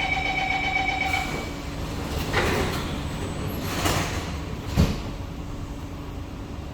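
Metro train door-closing warning tone sounding steadily for about a second and a half, then the sliding doors swishing shut and closing with a thud near the end. The train's low rumble runs underneath.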